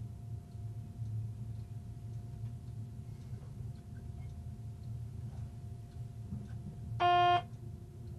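Train running on the line, heard from the driver's cab as a steady low rumble with a faint steady hum above it. About seven seconds in, a single short beep sounds loudly for under half a second and cuts off sharply.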